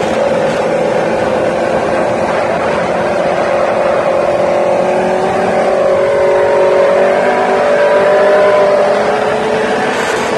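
Motorcycle engine running under way with wind noise, its note climbing gradually through the middle and dropping off near the end.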